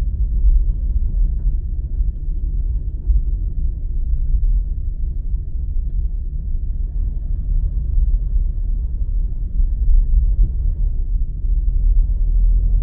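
Steady low rumble of a car driving, with road and engine noise and no distinct events.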